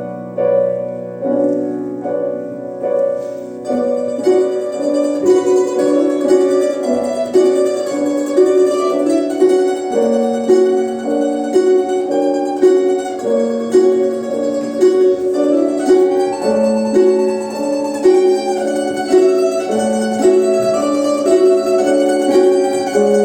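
A quartet of domras, Russian plucked lutes, playing an ensemble piece: short plucked notes repeating in a steady pattern over a held low chord that gives way about four seconds in.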